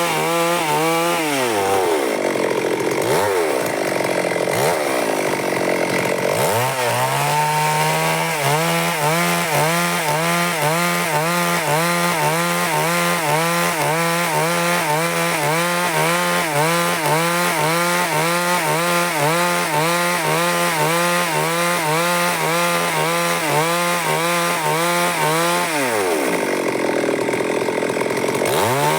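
Stihl MS 382 two-stroke chainsaw cutting wood at high revs, its pitch wavering under load. The engine drops in pitch about a second in and dips a few times before revving back up around six seconds in, then runs steadily through the cut until it drops again near the end and picks back up at the very end.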